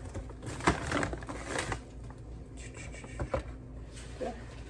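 Kitchen handling noises: a few sharp clicks and short rustles, clustered about a second in and again a little past three seconds.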